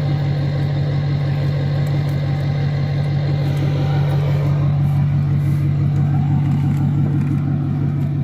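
Diesel pickup truck engine running steadily with an even low hum close to the microphone.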